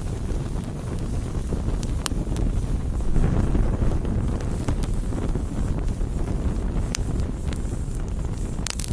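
Campfire burning: a steady low rush with sharp pops of crackling wood scattered through it, and a fuller surge about three seconds in.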